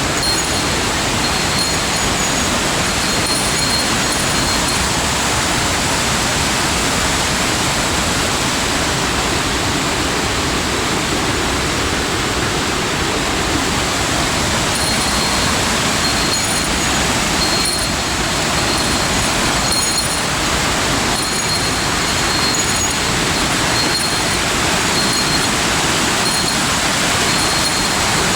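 Steady, loud rush of falling water from a mountain waterfall.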